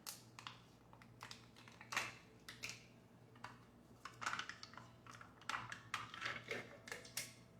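Faint, irregular light clicks and short crinkles of a plastic tub of cream cheese icing being opened and handled.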